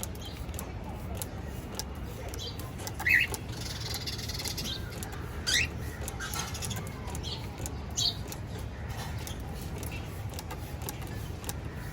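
Cockatiels giving a few short, high chirps, the loudest about three seconds in and a rising one about five and a half seconds in, over a low steady hum.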